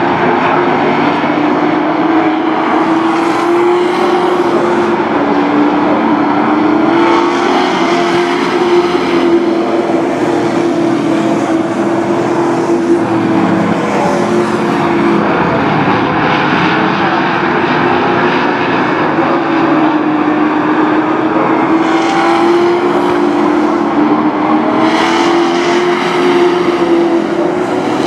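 A field of sport trucks racing around a short oval, engines held at speed, their combined note rising and falling slowly as they circle. Several times a rush of noise comes as trucks pass close by.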